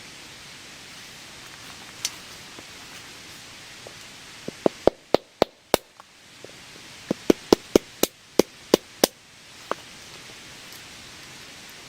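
Sharp knocks of something striking wood, in two quick runs of about six and then about eight strikes, three or four a second, with single knocks before and after. Steady rain hiss underneath.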